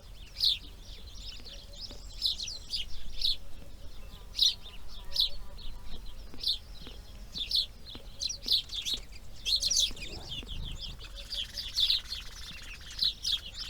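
Small birds chirping: short, high chirps every second or so, coming faster in close runs near the end.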